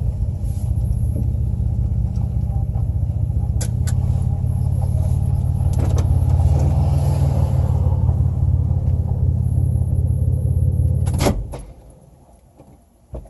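Vehicle engine running with a steady low rumble, heard from inside the cab. It is switched off about eleven seconds in, the rumble stopping abruptly. A single click follows near the end.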